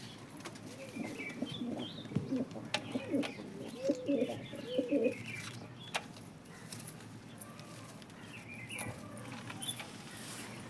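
Domestic pigeons cooing in repeated low bouts, mostly in the first half, with higher chirps of small birds and a few sharp clicks.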